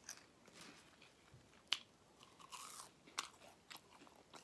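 A person chewing fried fish and crinkle-cut fries close to the microphone: faint mouth sounds and soft crunches, with a sharper crunch twice, near the middle.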